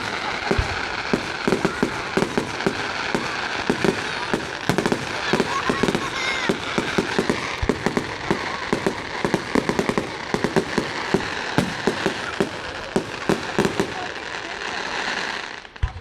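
Fireworks display: a dense barrage of rapid bangs, several a second, over continuous crackling, ending with one strong bang.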